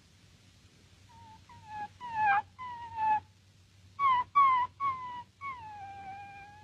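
An animal's high, pitched cries: a string of short cries that each fall slightly in pitch, then one longer cry that dips and rises again at the end.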